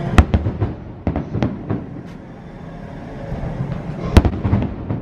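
Aerial fireworks shells bursting: a quick string of sharp bangs in the first two seconds, then a single loudest bang a little after four seconds, followed by a few smaller pops.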